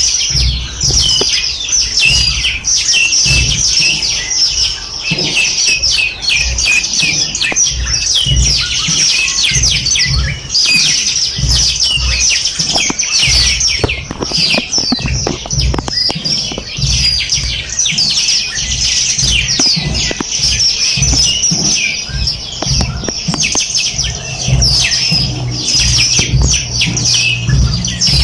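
A chorus of many small songbirds chirping and trilling rapidly and continuously, with overlapping high calls. Low rumbling thumps come and go underneath.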